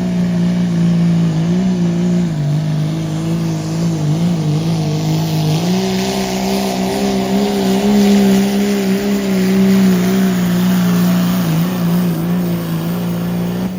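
Turbocharged diesel pickup's engine held at high revs under full load while pulling the sled. Its pitch wavers, steps higher about halfway through and holds there, with a brief dip near the end.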